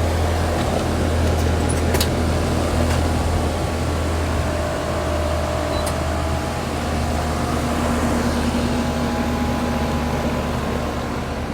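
Pool pump motor running with a steady hum.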